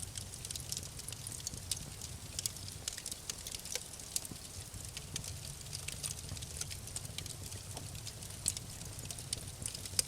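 Wood fire crackling in a fireplace: many small, irregular pops and snaps over a steady low rumble of the flames.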